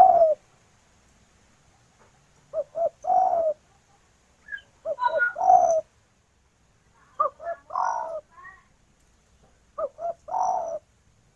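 Spotted dove (tekukur) cooing: about four phrases, each two short coos followed by a longer, lower rolling coo, with pauses of about a second between them.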